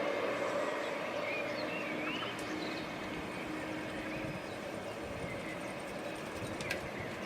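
Train rumbling past and slowly fading away, with a faint steady hum in the noise. A bird chirps a few times over it.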